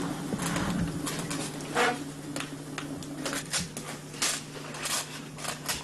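Irregular scraping and clicking strokes, a few a second, from hand-working the reed of a Tuvan tshoor flute while it is being made. A steady low hum runs underneath.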